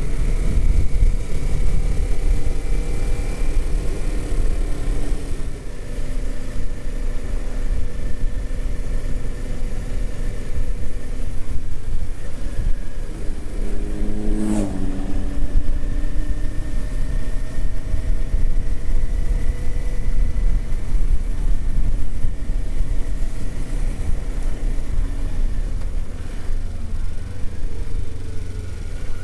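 Kawasaki Z400 parallel-twin engine running at road speed, its pitch rising and falling slowly with the throttle, over a steady low wind rush on the microphone. A short sharp sound comes about halfway through.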